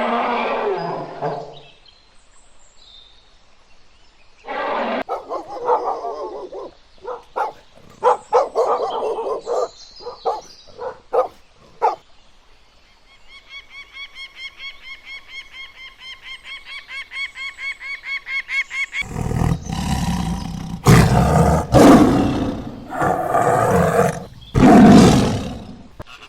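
A series of different animal calls, one clip after another: short calls, then a rapid evenly pulsing trill, then the loudest part, several long deep calls near the end.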